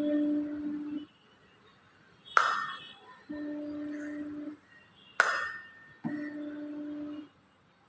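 A 288 Hz tuning fork struck twice on a rubber cork, each strike a sharp knock with a short high ring, and three times its steady pure hum sounding for about a second before cutting off.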